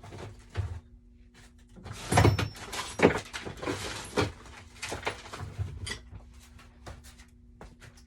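Workshop handling noises: scattered knocks and clicks, with a burst of clattering and rustling about two seconds in that lasts a couple of seconds, then a few lighter taps.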